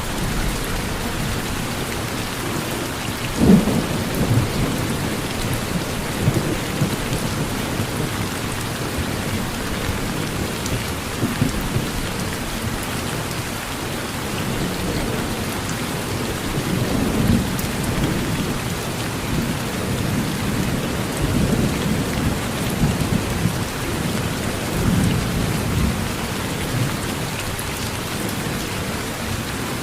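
Steady rain with thunder. There is a sharp thunderclap about three and a half seconds in, then repeated low rumbles through the second half.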